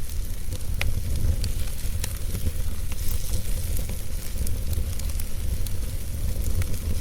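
Wood fire burning, with frequent small crackles and pops over a steady low rumble.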